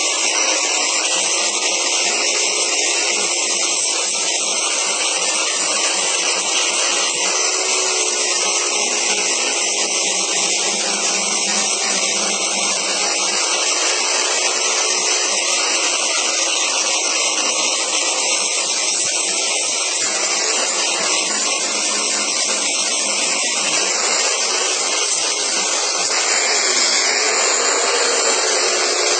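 Black & Decker 1/2-inch belt sander with a 40-grit belt running continuously against wood, a steady motor whine under the rasp of the belt, shifting slightly in pitch and level near the end as the pressure changes.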